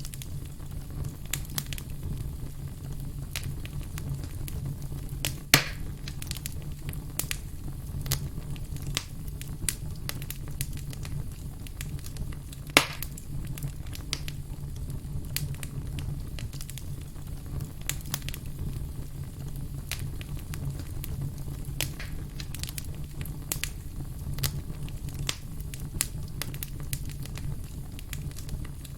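Campfire crackling, with dense small crackles over a steady low rumble and two louder sharp pops, one about five and a half seconds in and one near thirteen seconds.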